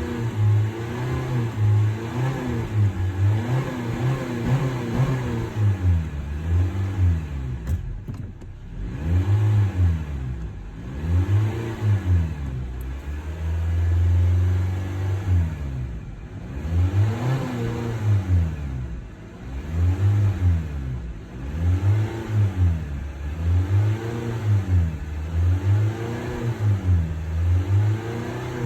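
2020 Honda Civic's engine revved in quick blips, about one a second, its pitch rising and falling each time, with one longer held rev about halfway through and a short lull before it.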